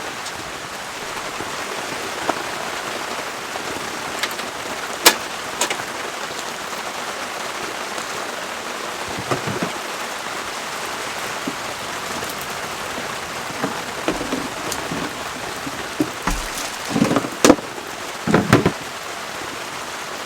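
Heavy rain falling steadily on a tarp shelter, an even hiss. A few sharp clicks and knocks cut through it, coming thicker and louder near the end.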